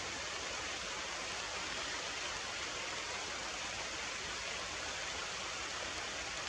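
Heavy rain falling steadily, an even hiss with no separate drops standing out.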